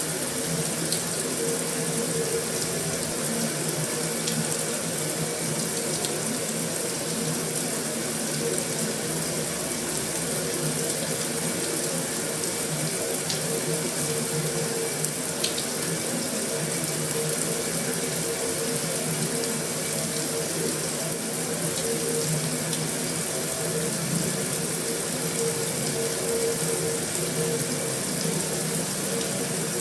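Heavy rain drumming steadily on a metal roof, with a few sharper single drop ticks scattered through it.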